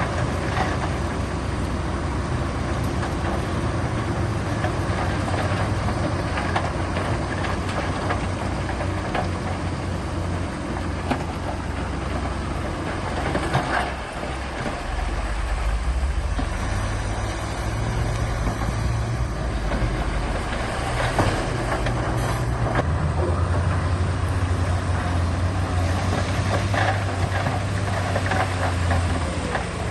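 Diesel engines of heavy earthmoving machinery running steadily, the engine note changing a couple of times as they work. A few clanks come through.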